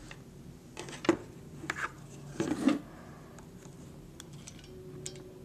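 Handling of a plastic toy dinosaur: a few light clicks and knocks, the loudest cluster about halfway through.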